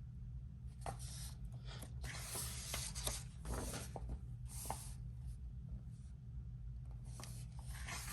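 Paper pages of a coloring book being turned and brushed by hand: a series of soft swishes and rustles over a low steady hum.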